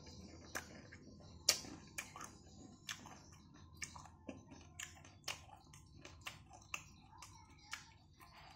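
A person chewing crunchy food with the mouth close to the microphone: sharp crunches about two a second, the loudest about a second and a half in.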